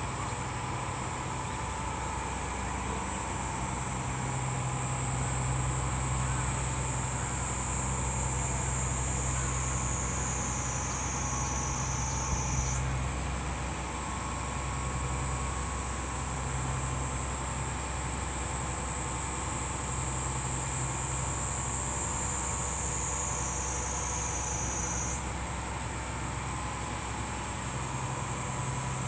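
A high, shrill insect drone that jumps up in pitch and then slowly sinks, repeating about every twelve seconds, over a steady low engine hum.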